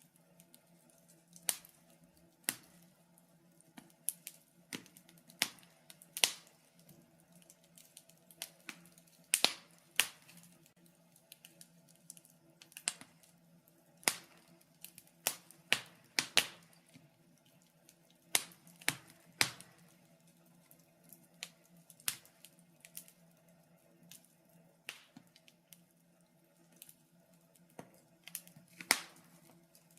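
Wood fire crackling in a fireplace: irregular sharp pops and snaps, sometimes several close together, over a faint steady low hum.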